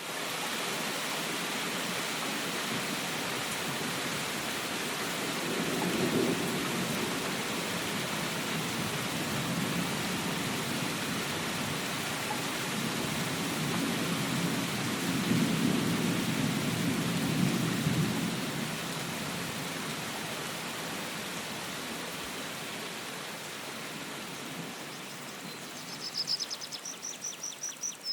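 Steady rain falling, with low rolls of thunder about six seconds in and again for several seconds around the middle. Near the end a high, rapidly pulsing call starts up.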